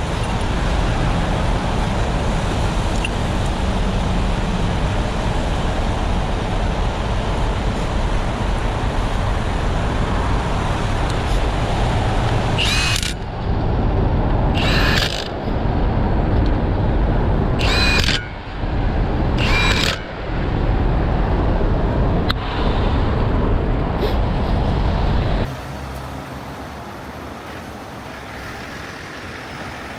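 Steady roadside noise of heavy trucks and freeway traffic, with a few short squeals or hisses about halfway through. Near the end it drops suddenly to a quieter, even background.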